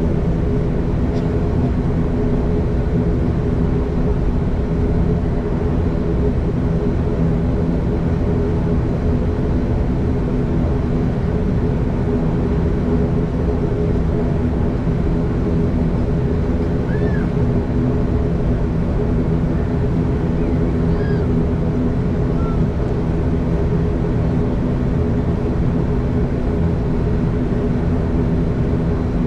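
ATR 42-500's Pratt & Whitney PW127 turboprop engines and propellers running steadily, heard inside the passenger cabin as a loud, even drone with a steady hum of several tones over a low rumble.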